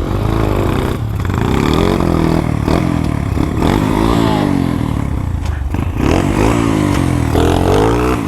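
Motorcycle engine revving up and down repeatedly, its pitch rising and falling several times, over a steady low rumble while riding a rough off-road trail.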